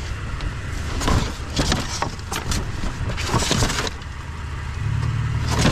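Rummaging through a bin of curbside junk: irregular clattering, knocking and rustling as pieces are picked up and moved about, over a steady low engine hum from an idling vehicle that grows stronger near the end.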